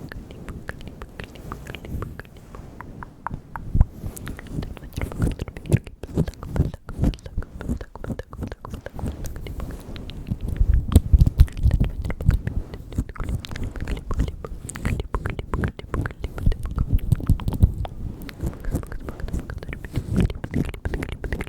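Close-microphone ASMR mouth sounds: a quick, dense stream of wet clicks and smacks of lips and tongue, with soft low thumps, getting busier about halfway through.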